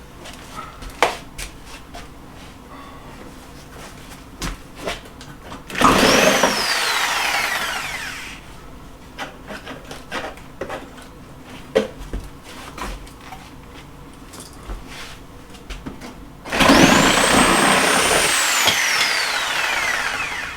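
Electric power saw run twice for a few seconds each, its motor whine leaping up as it starts and then sliding down in pitch as it cuts through wall paneling. Scattered knocks and clatter come in between the two cuts.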